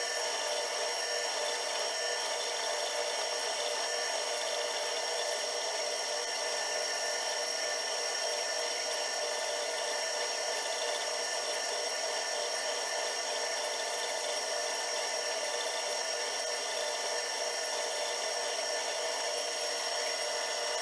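Small metalworking machine tool running steadily through the whole stretch, a constant mechanical hum with a thin high whine over it.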